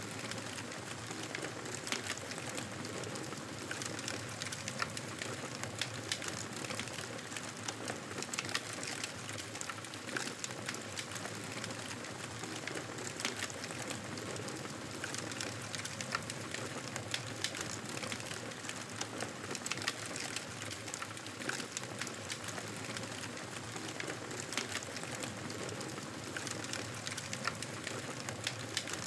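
Campfire burning with a steady hiss and many irregular crackles and pops from the wood.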